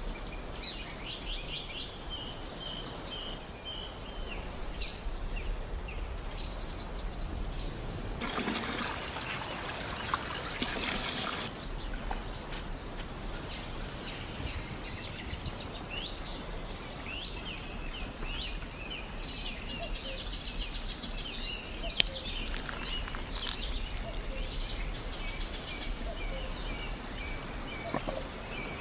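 Small birds chirping and singing over a steady outdoor background hiss. About eight seconds in there is a rush of noise lasting about three seconds, and a single sharp click comes a little later.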